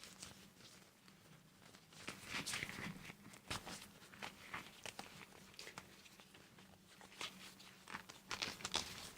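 Crinkly material handled close up: quiet, irregular crinkling and rustling with scattered light clicks.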